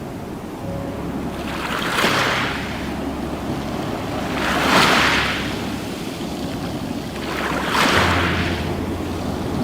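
Ocean waves breaking and washing on a shore: three surges of surf about three seconds apart, each swelling and then fading.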